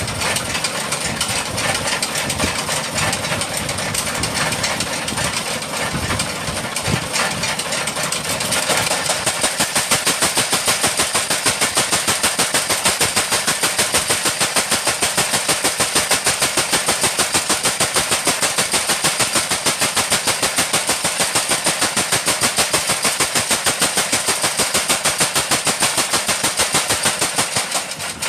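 A machine running steadily; about eight seconds in it settles into a fast, even pounding of about five strokes a second, which stops shortly before the end.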